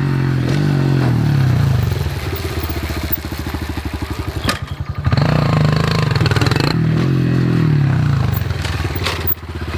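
Honda CRF125 pit bike's single-cylinder four-stroke engine revving and easing off, dropping to a slow low-rev chug in the middle before pulling up again. A sharp knock is heard about halfway through and another near the end.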